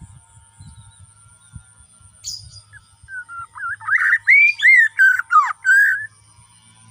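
Bornean shama (murai batu) singing: a brief sharp chirp about two seconds in, then a loud run of rich whistled notes sliding up and down for about three seconds.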